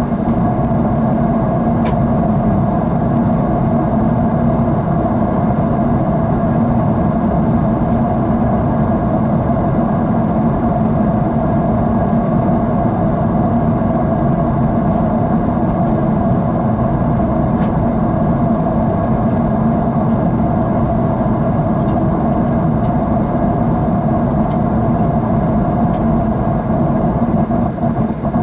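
Steady jet engine noise inside an airliner cabin, heard from a window seat: an even, unbroken hum-and-hiss with a couple of steady low tones in it, and a few faint clicks.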